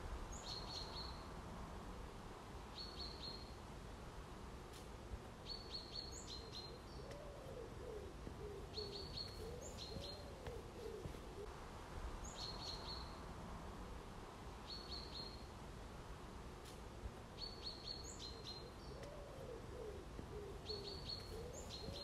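Birds singing: a short high call ending in a quick chatter, repeated every two to three seconds, with lower rising-and-falling notes coming in several bouts from about seven seconds in.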